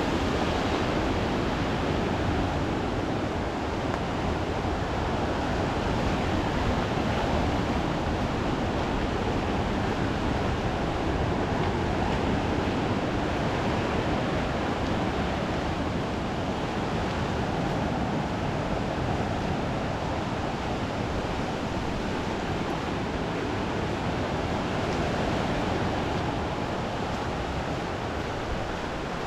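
Steady rushing noise of sea surf on the shore, mixed with wind, swelling slightly at times.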